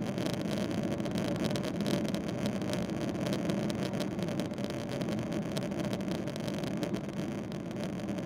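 Steady engine noise and rumble of a Boeing 777-300ER with its GE90 turbofans, heard from inside the passenger cabin.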